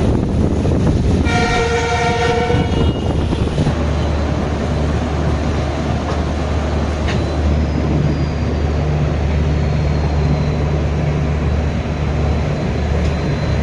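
Passenger train running at speed with a steady low rumble, and a train horn sounding once for about a second and a half near the start.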